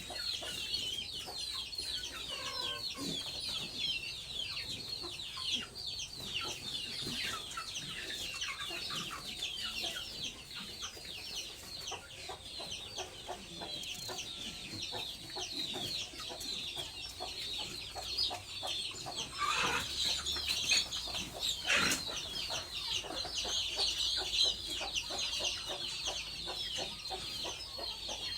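A flock of chickens peeping and clucking without pause: a dense chatter of many short, high, falling chirps. Two louder calls stand out about twenty and twenty-two seconds in.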